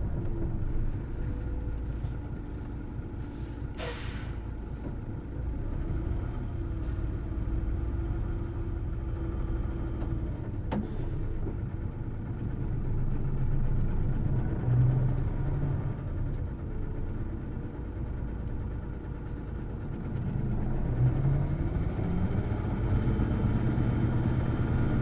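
Hino Blue Ribbon City Hybrid bus (BJG-HU8JLFP) running, heard from on board: a steady diesel drone with whining tones that rise and fall as the bus speeds up and slows. A brief hiss about four seconds in.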